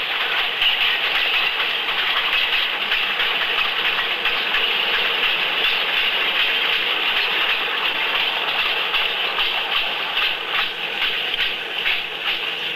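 A narrow-gauge train's carriages rolling slowly past: a steady, thin-sounding rattle, with sharper clicks and knocks coming more often near the end.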